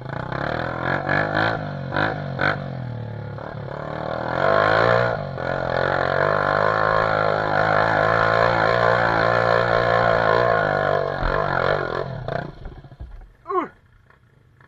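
Dirt bike engine revving hard and held at high revs under load, as on a hill climb, then dropping away about twelve seconds in, with one short sharp blip near the end.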